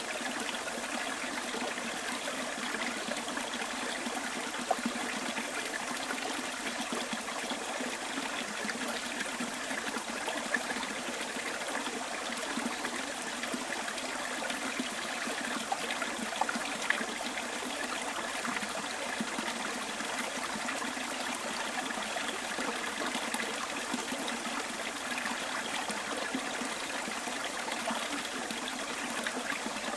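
Small stream running and trickling over stones, steady throughout, with a few brief louder splashes.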